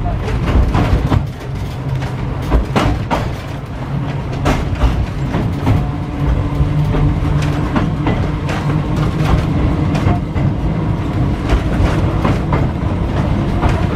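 W2-class electric tram running along the track: a continuous low rumble with repeated clicks and clatter of the wheels over the rails, and a steady low hum in the middle stretch.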